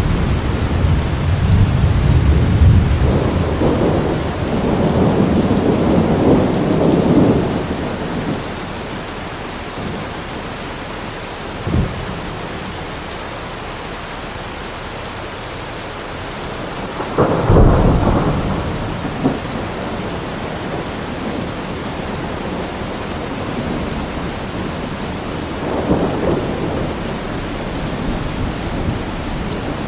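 Steady heavy rain under a thunderstorm. Rolling thunder rumbles through the first several seconds. A short sharp crack comes about twelve seconds in, a loud clap with a rumble after it near eighteen seconds, and a softer roll of thunder near the end.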